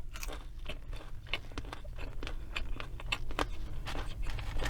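A person chewing food close to the microphone, with many small, irregular crunching and wet mouth clicks.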